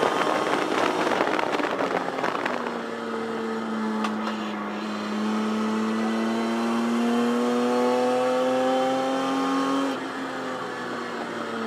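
Racing 1973 Datsun 240Z's straight-six engine heard from inside the cabin under way on track: harsh and noisy for the first couple of seconds, then a steady note that climbs slowly in pitch, dropping off about ten seconds in.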